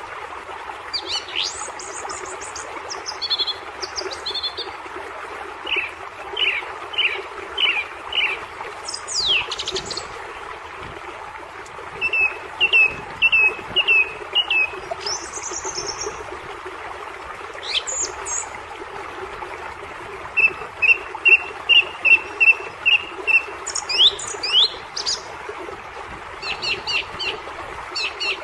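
Wild birds singing and calling over a steady background hiss. Several voices are heard: high down-slurred whistles and runs of quick repeated chirps, the longest run of about nine notes coming near the end.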